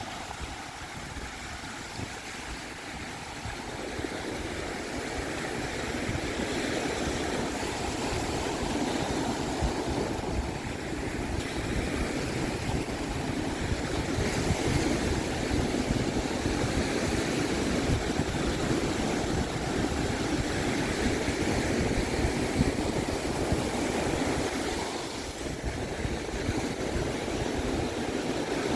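Pacific Ocean surf breaking and washing up a sandy beach, with wind rumbling on the microphone. The wash swells a few seconds in and eases briefly near the end.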